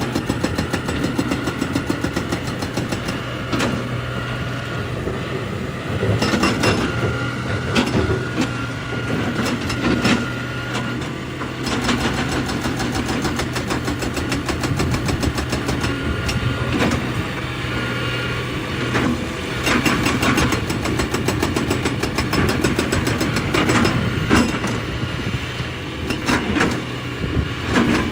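Excavator's diesel engine running steadily, with frequent irregular metallic clanks and knocks over it.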